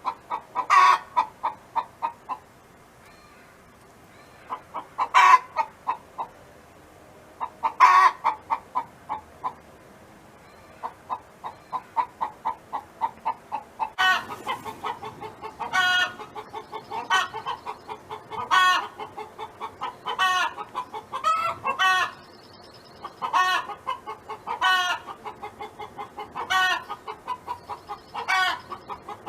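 A hen clucking in quick, steady runs, broken every second or two by a louder, longer rising call, as in a hen's cackling song. The clucking thins out for a few seconds early on, then the louder calls come more often from about halfway through.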